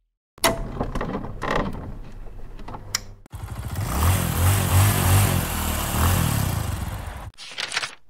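Glass-breaking explosion effect: a sharp blast about a third of a second in, then shattering and crashing glass for about three seconds. Then a motorcycle engine runs and revs for about four seconds and cuts off suddenly, followed by a short rustle just before the end.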